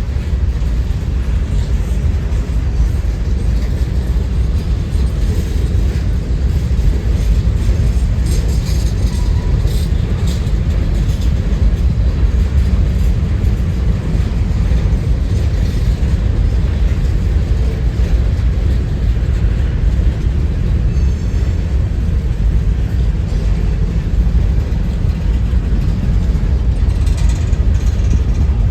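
Strong wind buffeting the microphone: a loud, steady low rumble with no pauses.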